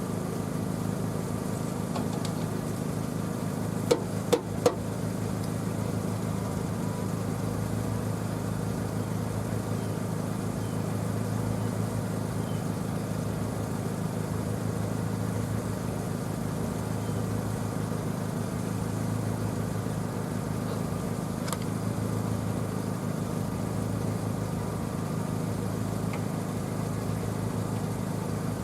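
Pickup truck engine idling steadily, with three sharp clicks about four seconds in.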